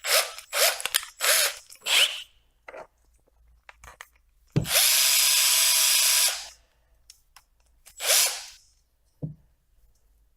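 Power drill with a chamfer bit cutting a chamfer into the screw hole of a 3D-printed plastic holder. It runs in four short bursts, then steadily for about two seconds near the middle, then one more short burst near the end.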